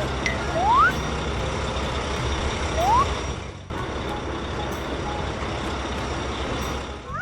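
A cartoon truck engine sound effect runs steadily. Two short rising whistle glides come in, under a second in and about three seconds in, and the sound drops out briefly near the middle.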